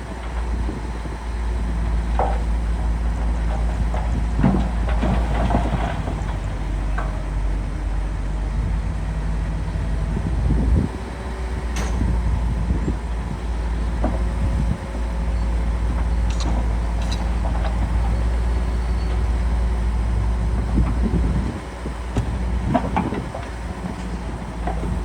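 Diesel engine of a Shantui DH17C2 bulldozer running steadily at work, with a few sharp metallic clanks. A heavy low rumble from wind on the microphone runs under it.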